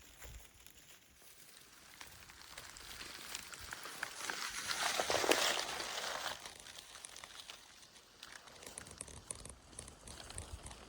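Rustling and crackling of movement through dry leaves and undergrowth, growing louder about four to six seconds in and then easing off.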